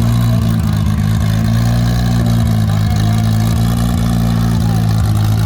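Turbocharged 1994 Toyota Supra race car engine idling steadily, with no revving.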